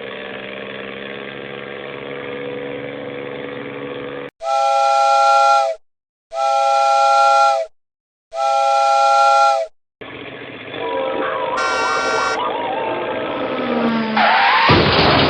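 Three identical horn or whistle blasts, each about a second and a half long and about two seconds apart, between stretches of a steady engine hum. A louder jumble of sounds with a falling glide comes near the end.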